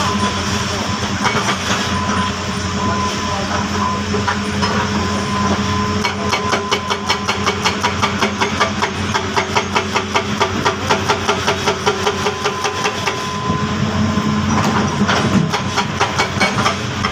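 Heavy construction machine's diesel engine running steadily. For several seconds in the middle, a fast, even metallic clanking comes in, about four beats a second.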